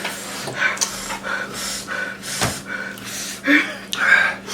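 A string of sharp, gasping breaths and panting through the mouth, the kind of air-sucking that follows a mouthful of fiery-hot spicy noodles. A short click comes about halfway through.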